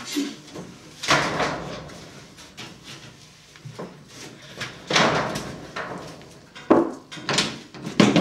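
Several separate clunks and rattles, four of them, each dying away quickly, like a door or other metal fittings being handled.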